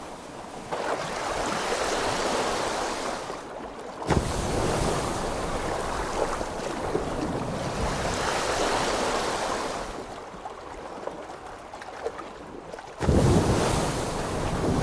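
Ocean water noise, a steady rush of sea water and waves. It changes abruptly about 4 seconds in and again about 13 seconds in, getting fuller and louder each time.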